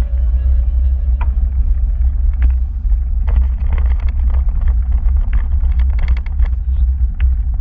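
Low, steady rumble of wind and road noise on the microphone during a ride, with a run of clicks and rattles from about three seconds in.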